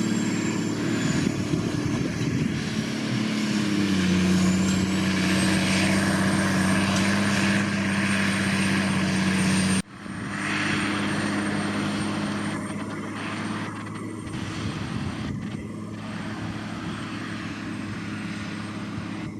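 Case IH Quadtrac 535 tracked tractor's diesel engine running steadily under load while pulling a cultivator, its note settling a little lower about four seconds in. The sound cuts off abruptly about halfway and picks up again with the engine slightly quieter.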